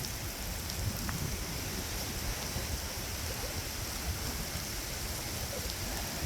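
Steady rain falling, an even hiss with no breaks, and wind rumbling on the microphone.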